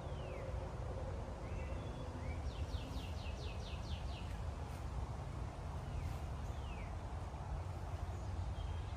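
Wind buffeting the microphone, with birds calling: a few short down-slurred whistles and, about two and a half seconds in, a quick trill of about eight notes.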